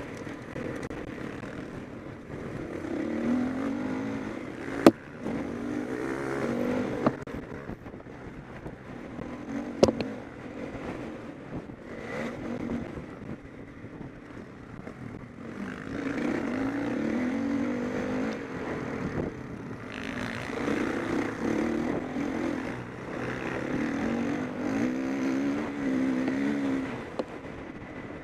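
Motocross bike engines revving up and down in repeated surges as the bikes race round the track, louder from about 16 seconds in. Two sharp knocks stand out, about five and ten seconds in.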